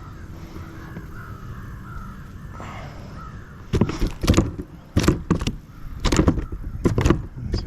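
A crappie thrashing and splashing as it is put on a stringer in a kayak: a run of sharp, irregular splashes and knocks that starts about halfway through.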